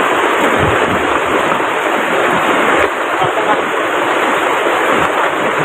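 Rushing river water, a steady loud wash of noise.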